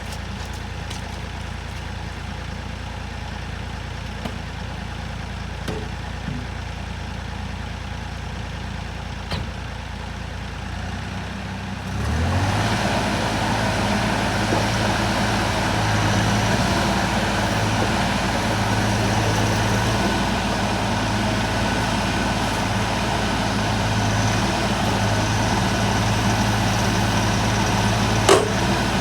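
Doosan DX50-7 mini excavator's diesel engine idling, then throttled up about twelve seconds in, rising in pitch and running steadily at higher revs. There is one sharp knock near the end.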